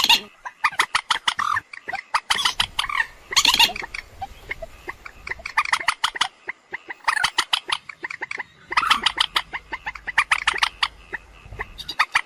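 Common moorhen calling: rapid series of short notes in bouts of about a second, with short pauses between them.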